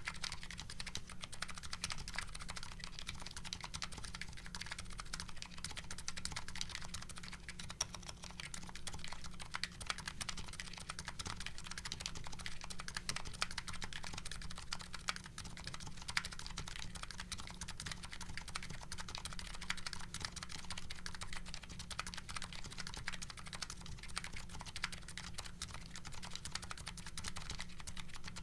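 Continuous typing on a Nuxros Kraze custom keyboard with MetaKeebs MetaPulse electro-capacitive switches and GMK Hennessey keycaps: a fast, unbroken stream of keystrokes.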